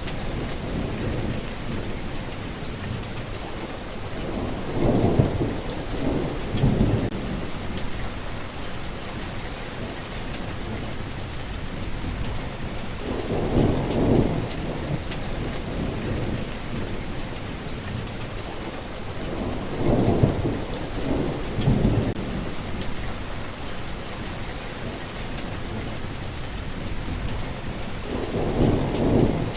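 Steady rain with thunder rumbling low four times, several seconds apart.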